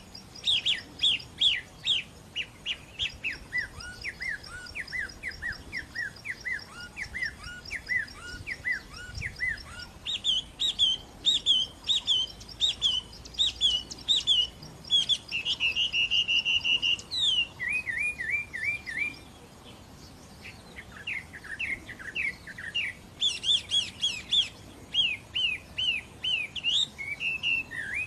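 A songbird singing: fast runs of sharp downward-sliding chirps, several a second, with a fainter higher twittering behind them. A short steady trill comes a little past the middle, and the song breaks off briefly about two-thirds of the way through before starting again.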